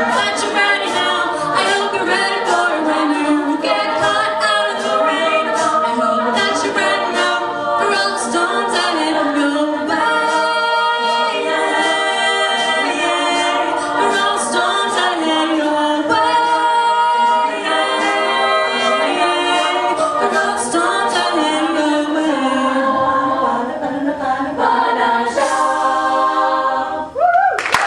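Female a cappella group singing wordless close harmony, with sharp vocal-percussion clicks keeping a steady beat. It closes on a long held chord near the end.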